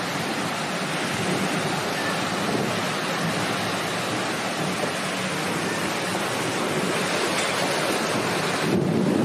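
A storm: heavy rain and strong wind making a steady, even hiss. Near the end it turns to a deeper rumble as the wind buffets the microphone.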